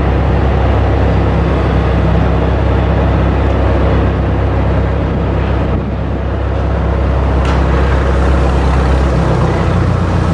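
A ship's diesel engine running steadily inside the hull, a loud low hum with a brief dip about halfway through and a slight change in pitch near the end.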